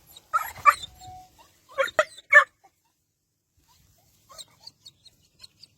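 A dog giving short cries in two bunches over the first two and a half seconds, with a sharp click in between, then a run of faint, short high squeaks near the end.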